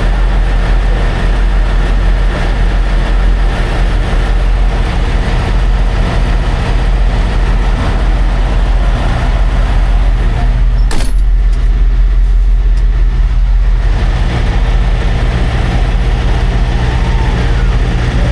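Semi-truck diesel engine idling with a steady low drone, and a single sharp click about eleven seconds in.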